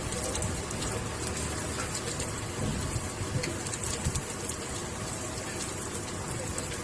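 Steady rain falling, with many small drops ticking sharply on nearby surfaces over an even hiss.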